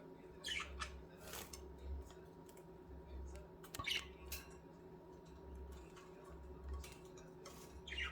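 Pet budgerigars making scattered short, faint chirps and clicks over a steady low hum.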